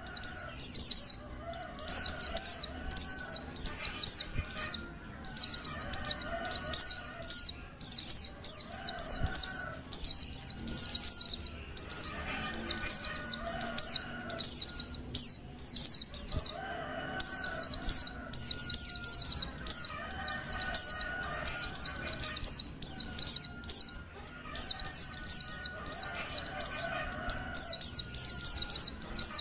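Female white-eye (pleci) giving rapid, high-pitched chattering calls in bouts of a second or two with short pauses between, the call used to stir male white-eyes into song.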